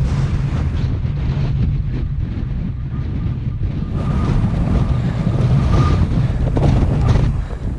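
Strong wind buffeting the microphone: a loud, steady low rumble that eases near the end.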